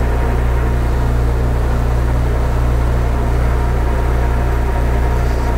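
Metal lathe running steadily in reverse, its motor and gearing humming evenly, backing the internal threading tool out of the blind bore with the half-nut left engaged, as the metric thread cannot be disengaged on the imperial lead screw.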